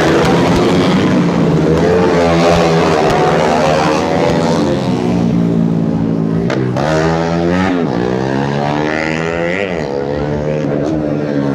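Several tuned 130cc underbone racing motorcycles running at high revs, their engine notes rising and falling and overlapping as they pass. Two bikes go by close, about two-thirds of the way through and again near the end, each with a quick drop in pitch.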